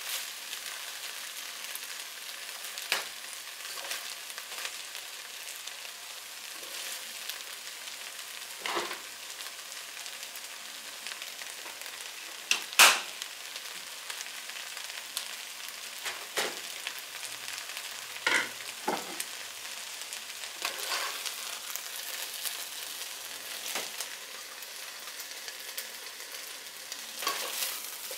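Fried rice with beef and spinach sizzling steadily in a nonstick pot while it is stirred, with a few sharp knocks and scrapes of a plastic spatula against the pot; the loudest knock comes about halfway through.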